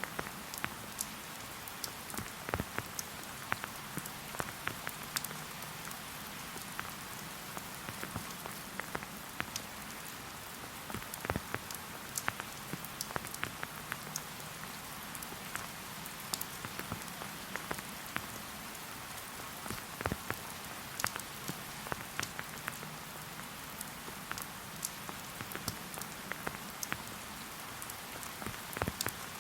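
Steady rain falling, a soft even hiss dotted with many sharp ticks of individual drops landing close by at irregular intervals.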